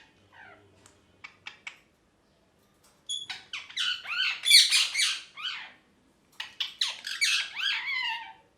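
Ringneck parrot squawking and chattering in two loud bursts of rapid calls that bend up and down in pitch, after a few soft clicks about a second in.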